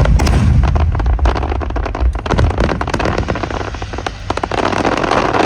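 Aerial fireworks going off: deep booms under a dense run of crackling pops.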